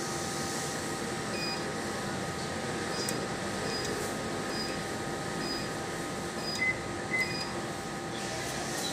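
A convenience-store ATM beeping as its buttons are pressed: short high beeps about one every second, with a few faint clicks. Near the end come two louder, lower beeps. A steady air-conditioning hum runs underneath.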